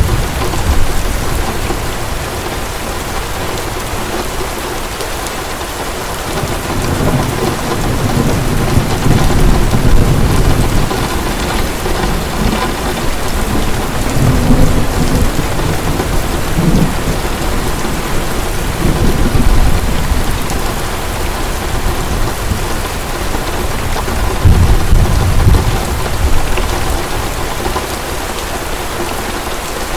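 Heavy rain falling steadily, with low rolls of thunder rumbling up and fading away several times.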